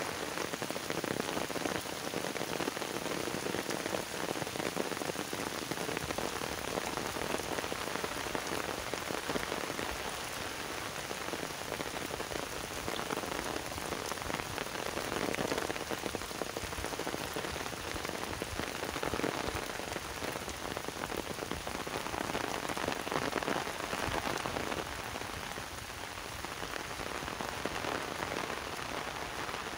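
Heavy rain falling steadily on trees, bare earth and wet grass: a dense, even hiss.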